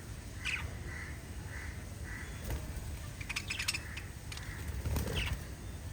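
Small pet parrots calling: a harsh squawk about half a second in, a few soft short chirps after it, and another squawk near the end. Sharp clicks come in the middle, over a steady low hum.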